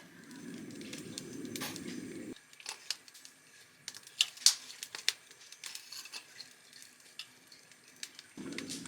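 Newly lit wood fire with paper kindling, crackling in scattered sharp pops and crinkles. A steady low rumble underneath cuts off abruptly about two seconds in and comes back near the end.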